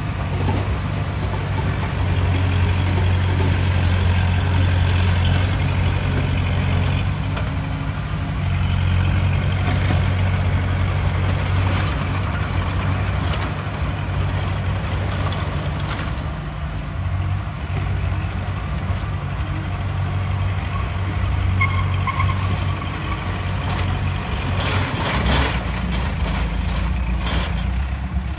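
Heavy diesel earthmoving machinery working, its deep engine note swelling and easing as the load changes. Noise spreads over it throughout, with a louder burst of noise near the end.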